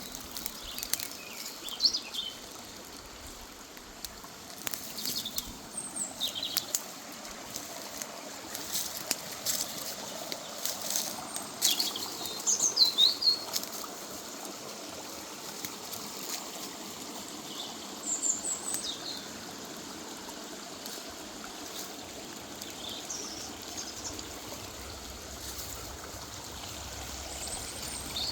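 River water running steadily over its bed, with short bird chirps breaking in every few seconds.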